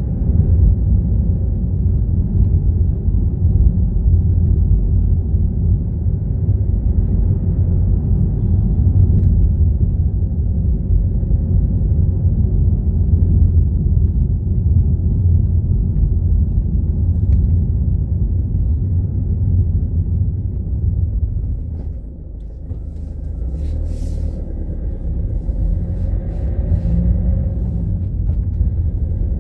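Steady low road and engine rumble of a car being driven, heard from inside. It eases briefly about three quarters of the way through, and a few faint clicks and a short higher sound come soon after.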